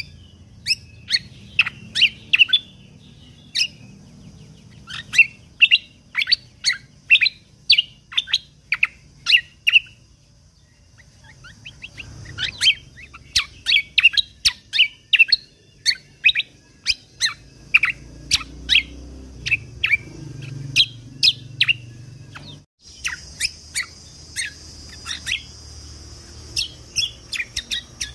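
A cucak kombo (kecial kombok) songbird singing a fast run of short, sharp chirps, in several bursts with a short lull in the middle. A faint steady hiss lies under the second half.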